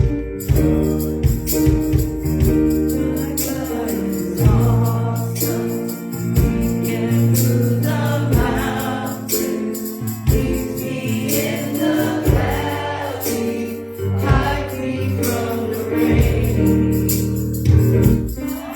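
Live gospel worship music: voices singing over sustained bass notes, with steady percussion hits and tambourine.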